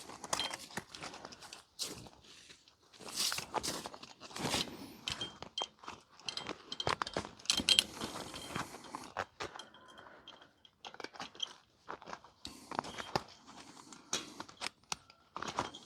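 Barbed wire being twisted and wrapped by hand to splice two ends together, giving irregular scraping, crunching and clicking.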